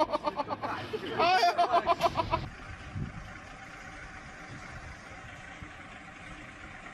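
A person's voice for the first couple of seconds, then steady vehicle running noise with a faint even hum.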